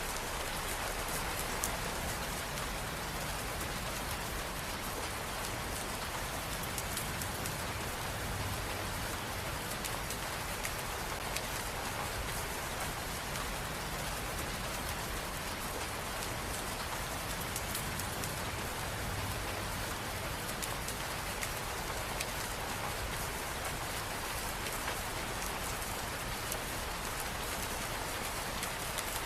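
Steady rain falling on hard surfaces, an even hiss with scattered individual drops ticking through it.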